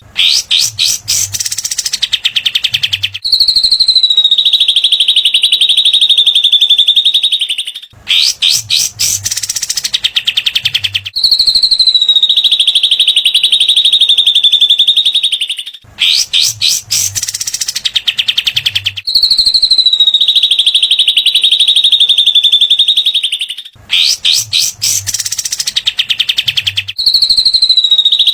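Looped birdsong training recording of cililin and kapas tembak (katem). A rapid, sharp trill lasting a couple of seconds is followed by a long, high, buzzy note of about four seconds that dips slightly, and the whole phrase repeats about every eight seconds.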